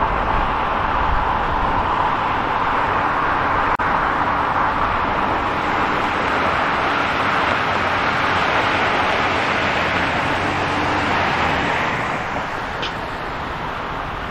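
City street traffic: steady tyre and engine noise of passing cars that eases off about twelve seconds in, with a single sharp click about four seconds in.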